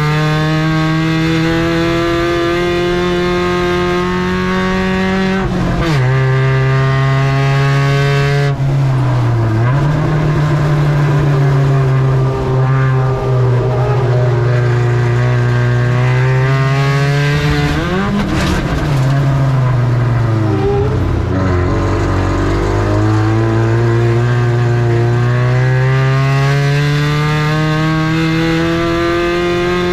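Spec Ranger race truck engine running hard at high revs, backing off sharply and climbing back up several times as the truck lifts for the corners and accelerates out of them.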